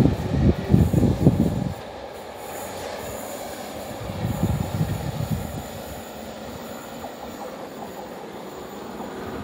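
Diesel-hauled passenger train going away down the line: a loud low rumble of the rear diesel locomotive and coaches that drops off sharply after a second or two, swells briefly around four seconds in, then fades into the distance.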